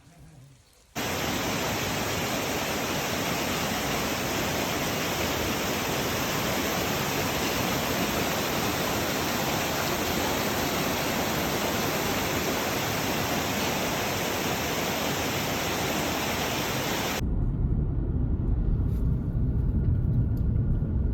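Waterfall: a steady rush of falling water that starts abruptly about a second in and cuts off suddenly near the end. A low rumble follows it.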